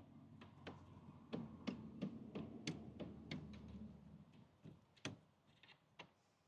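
Brake caliper being worked loose from its carrier: a run of light metal clicks and knocks, about three a second, thinning out near the end. The caliper is stuck, which the owner puts down to it having been painted in place.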